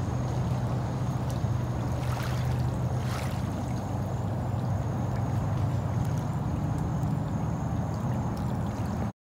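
Small waves lapping at a sandy shoreline over a steady low drone.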